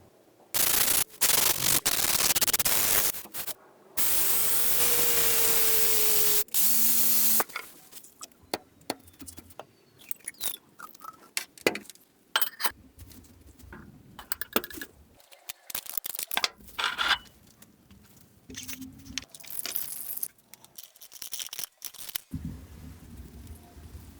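Two loud bursts of a power tool working metal in the first seven seconds, the second with a motor tone that sags slowly in pitch. These are followed by scattered scraping, rubbing and clicking from hand work on the knife.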